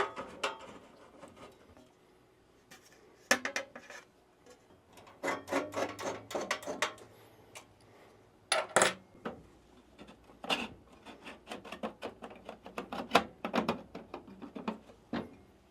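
Espresso machine side panel being refitted and screwed back on: irregular clicks, knocks and scraping of metal parts, coming in clusters.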